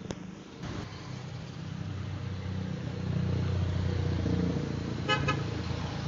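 Motor vehicle engine running, growing louder, with a short horn toot about five seconds in.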